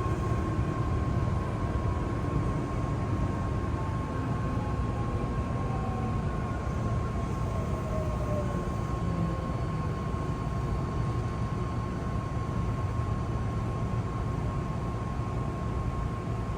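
Hankyu electric train heard from inside the car, rumbling steadily as it slows into a station, with a faint motor whine falling in pitch and a steady high tone.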